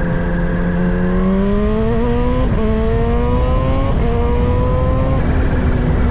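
Kawasaki Z H2's supercharged inline-four engine accelerating through the gears: its pitch climbs from about a second in, dips briefly at three gear changes, then holds steady near the end.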